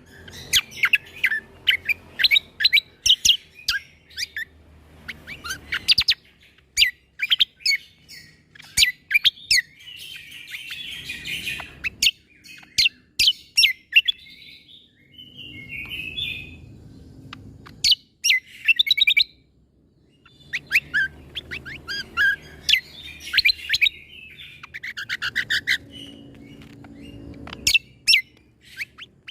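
Cucak kombo (kecial kombo) singing bursts of rapid, sharp chirping notes with short pauses between the bursts: the 'shot' notes that bird keepers want young songbirds to copy. A faint low hum lies under the song.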